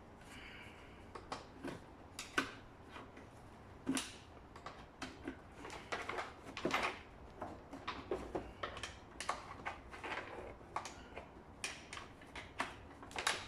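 Irregular clicks, taps and knocks of hand tools and plastic scooter body parts as screws are taken out and panels are handled.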